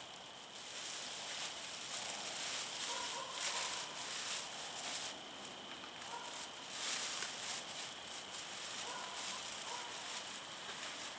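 Wood fire crackling and hissing in a brick fire pit, with irregular pops and crackles over a steady hiss.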